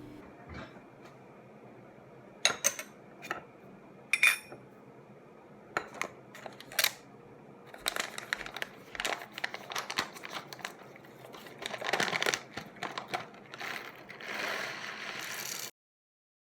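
Close-up handling sounds: a series of sharp clicks and knocks of small hard objects, coming thicker about halfway through, then a few seconds of rustling before the sound cuts off suddenly.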